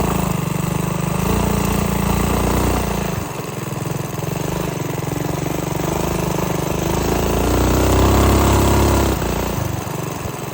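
Minibike engine running under throttle: steady at first, easing off about three seconds in, then climbing in pitch to its loudest around eight seconds before dropping back near the end.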